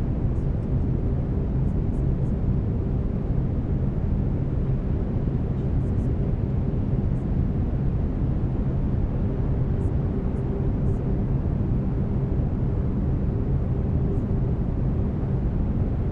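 Steady brown noise, a deep even hiss weighted toward the bass, with faint steady low tones under it from the track's binaural-beat layer.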